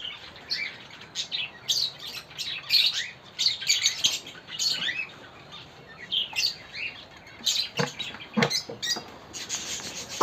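Many cage birds chirping in quick, short, high calls. Two sharp knocks come about eight seconds in.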